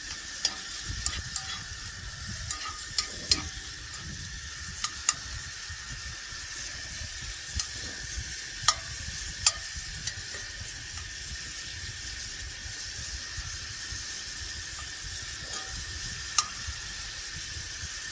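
Chicken and mushrooms frying in a pan: a steady sizzle, with sharp clicks now and then, more of them in the first few seconds.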